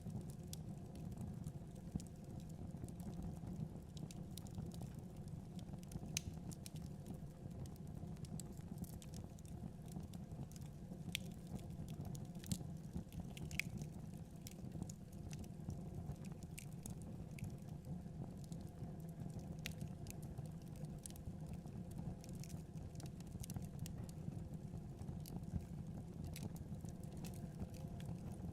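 Wood fire burning in a fireplace: a steady low rumble of flames with irregular crackles and pops scattered throughout, a few sharper and louder than the rest.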